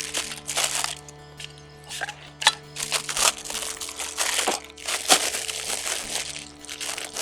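Plastic packaging rustling and crinkling in irregular bursts as it is handled, over background music with long held tones.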